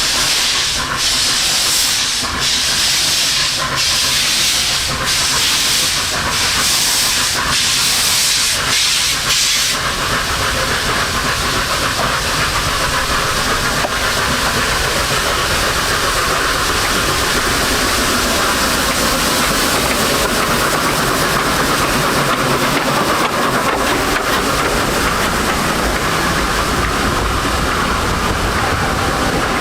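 Narrow-gauge steam locomotive working, its exhaust hissing in beats about once a second. About ten seconds in the beats give way to a steady rushing noise.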